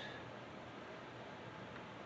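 Faint, steady background hiss of room tone, with no distinct sound event.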